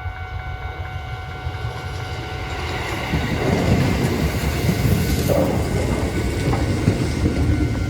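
Keisei 3600-series electric train running past a level crossing, its wheels clacking over the rail joints, getting louder about three seconds in. The crossing's warning bell rings steadily throughout.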